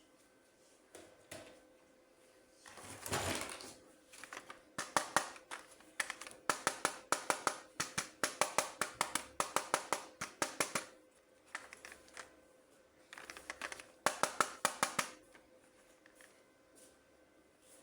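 A toy and its plastic packaging being handled. There is a short rustle, then two long runs of crisp, quick clicks at about four or five a second.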